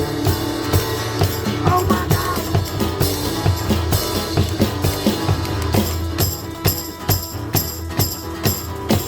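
Live rock band playing an instrumental passage: a drum kit keeps a steady beat of about two hits a second under bass and guitar, with a tambourine-like shaking joining in about six seconds in.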